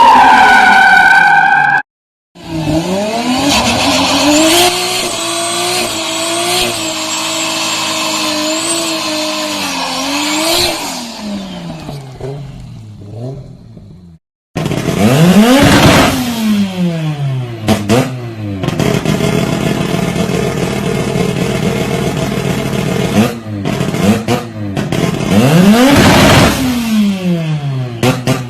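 Mazda RX-8 twin-rotor rotary engine at high revs, cut off abruptly twice. First it runs near the top of the rev range. Then it revs up and holds high for several seconds before dropping away. Then it repeatedly sweeps up and down in pitch.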